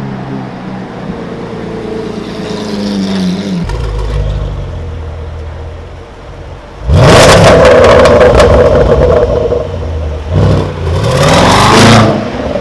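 Sports car engine revving hard: a low running note that drops away, then a sudden loud rev about seven seconds in, and a second rev that climbs and falls back near the end.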